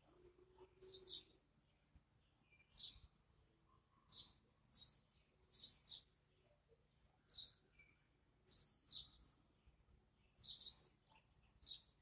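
A songbird giving short, sharp, high chirps, about a dozen of them at uneven intervals, each dropping quickly in pitch.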